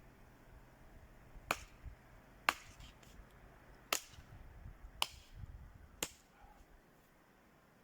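Dry twigs snapped by hand, five sharp cracks about a second apart.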